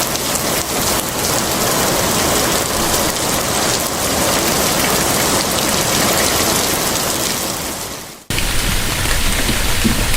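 Steady rain falling on surfaces. About eight seconds in it fades down and cuts abruptly to another stretch of rain with a deeper low rumble.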